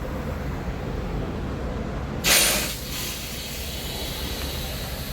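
A heavy diesel truck engine running low and steady, with one sharp burst of air-brake hiss a little over two seconds in that dies away within about half a second.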